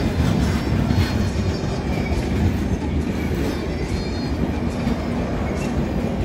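Passenger train coaches running past at speed: a steady, loud rumble of wheels on rails, with occasional clicks as the wheels cross rail joints.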